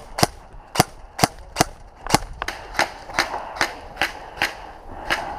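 G&G ARP 556 airsoft electric rifle firing single shots in quick succession, about a dozen sharp snaps at two to three a second.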